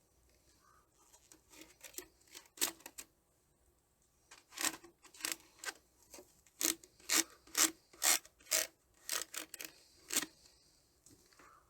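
A series of short scraping and rubbing strokes from packaging being handled during an unboxing. A few come early, then a steady run at about two strokes a second.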